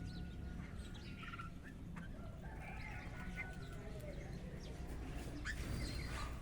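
Domestic chickens calling, a rooster among them, over the chirps of small birds.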